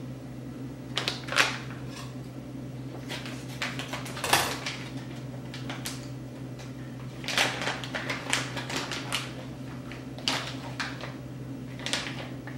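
Scattered light clicks and short rustles of hands and kitchenware while shredded cheese is sprinkled over filled potato halves, over a steady low hum.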